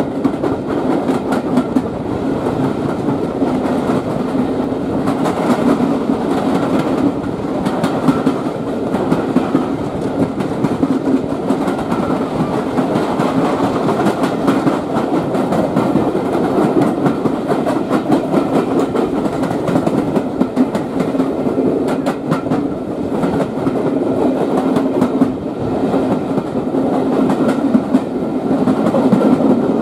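A train running along the track: a steady rumble with a continual clickety-clack of wheels passing over rail joints.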